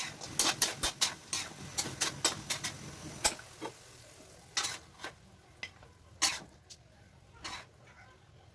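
A cooking utensil clicking and knocking against a pot while stirring chicken feet adobo: rapid taps for about three seconds, then a few scattered knocks.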